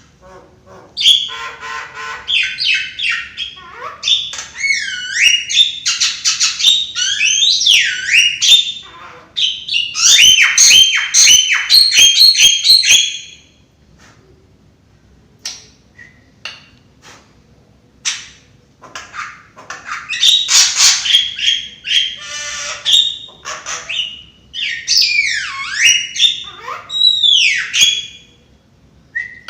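Javan myna singing in two long bouts of harsh squawks and chatter mixed with sweeping whistled notes, with a break of several seconds between them.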